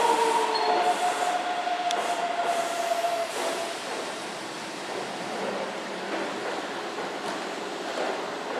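Keihan 2200-series electric train pulling into a station platform at low speed, its brakes and wheels squealing in several held tones that fade out about three and a half seconds in. A quieter steady running noise follows as the train rolls to a stop.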